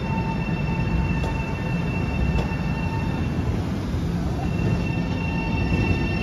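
Long Island Rail Road electric train moving slowly alongside the platform: a steady rumble with a high, steady whine or wheel squeal over it, its pitch edging up near the end.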